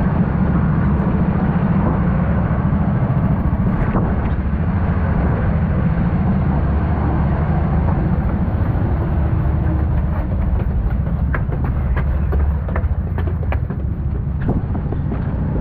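Four-stroke Honda kart engine running under load, a steady low drone heard through a helmet-mounted camera with a rushing noise layered over it. Sharp clicks and knocks come through in the second half, and the engine note drops a little near the end.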